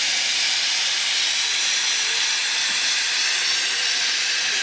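Narrow-gauge steam locomotive letting off steam: a steady, loud hiss.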